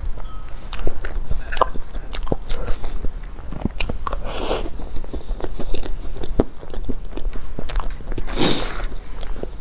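Close-up chewing and biting of a crispy-skinned half-baked cheesecake, with many small crunching clicks and a couple of longer soft noisy passes.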